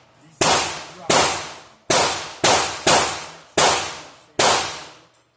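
Seven gunshots at a shooting range, fired in quick, slightly uneven succession about half a second to a second apart. Each is a sharp crack with a short echoing tail.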